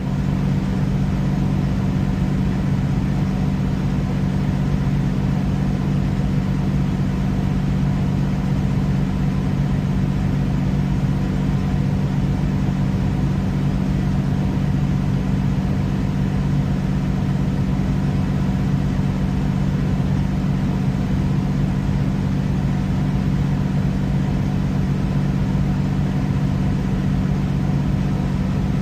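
Steady low mechanical hum at a constant level, with no change in pitch.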